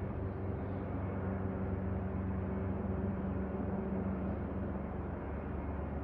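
Steady low mechanical hum with a constant pitch, like a machine or motor running continuously.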